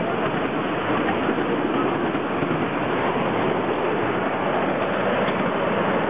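Steady noise of a train in motion, even and without distinct clicks or rhythm.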